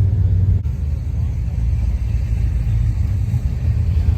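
Steady, low rumble of a car engine running at idle or low speed.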